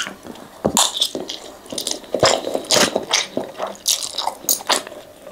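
A person chewing a mouthful of fried flat rice noodles (kwetiau goreng): wet, smacking mouth sounds at an irregular pace.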